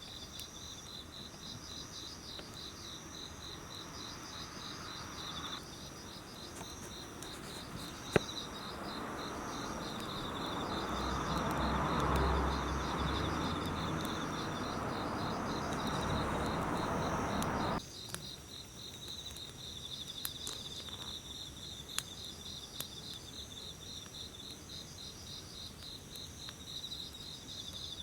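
Autumn insects chirping in steady pulsed trills at two pitches. A couple of sharp clicks sound, and about a third of the way in a broad rushing noise swells up, then cuts off abruptly a little past halfway.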